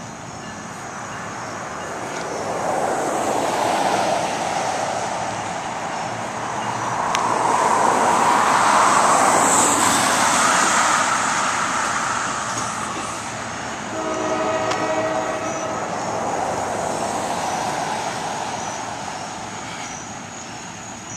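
NJ Transit diesel-hauled commuter train passing: a rushing rumble of the train that swells twice, with a horn chord sounding once for about a second and a half, about two-thirds of the way through.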